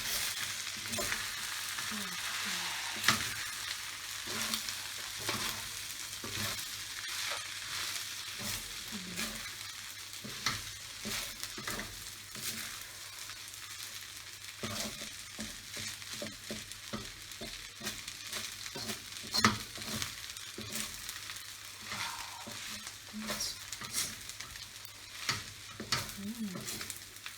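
Food sizzling in a hot pan as it is stir-fried, with a spatula scraping and knocking against the pan over and over. Two sharper knocks stand out, one about three seconds in and one past the middle.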